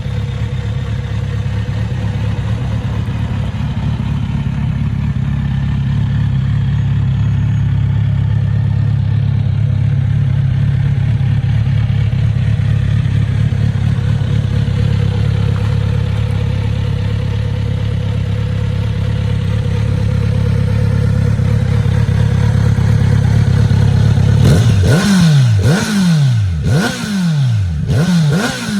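2020 Kawasaki Z900RS's inline-four engine idling steadily, then revved in about four quick throttle blips near the end, each rising and falling back.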